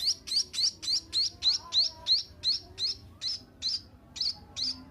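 A seven-day-old munia (emprit) chick giving rapid, repeated high begging chirps, each a short upward sweep, about three a second, coming a little slower near the end.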